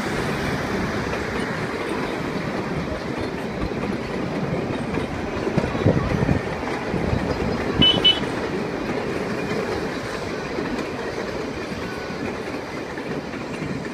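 Open wooden carriages of the Puffing Billy narrow-gauge railway rolling past over a timber trestle bridge, a steady clattering rumble of wheels on the rails with a few louder clunks around the middle.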